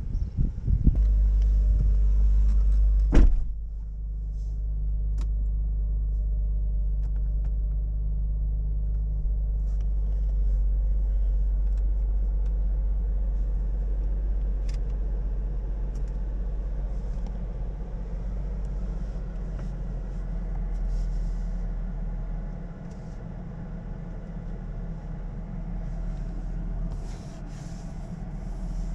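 Chevrolet Camaro's 3.6-litre V6 engine running at idle, a steady low rumble, a little louder in the first three seconds, with a sharp click about three seconds in.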